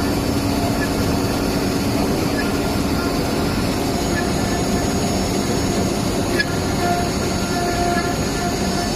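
WoodTec HA 2030 C CNC wood router running a milling job: a loud, steady machining noise with several held tones, and one sharp click about six and a half seconds in.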